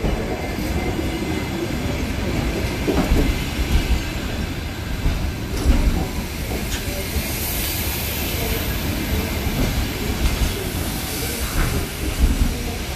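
Passenger train rolling through the station, a steady rumble with the wheels knocking over rail joints now and then.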